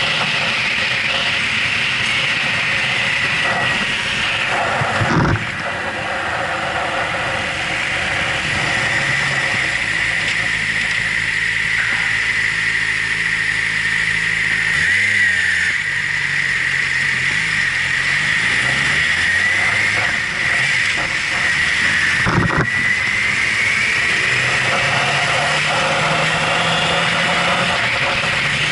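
2011 Yamaha YZF-R6's 600 cc inline-four engine running under way, with wind rush. The engine note drops and wavers as the bike slows in traffic about halfway through, then rises again as it accelerates near the end. Two brief knocks, about five seconds in and again later.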